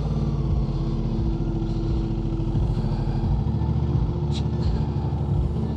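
Motorcycle engine running at a steady speed, an even hum with no revving.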